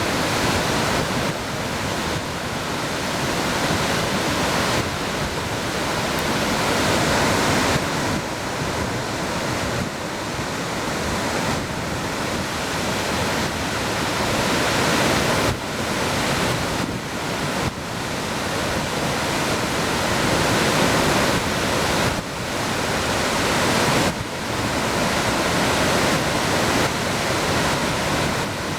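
Waterfall: a steady, loud rush of falling water, with the level shifting abruptly a few times.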